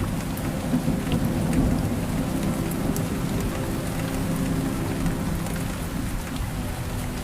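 Steady rain with a continuous low rumble underneath and scattered ticks of individual drops.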